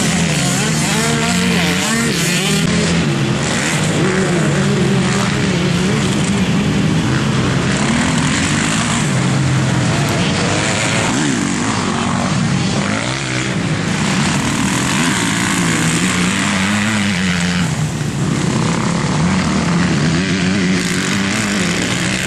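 Several motocross dirt bikes racing on a track, their engines revving up and down without letup as riders work the throttle through the course.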